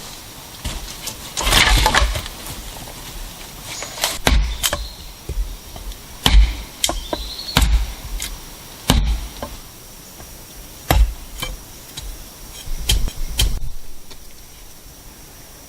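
Irregular series of sharp knocking blows, about eight over ten seconds, after a brief rustling sound near the start.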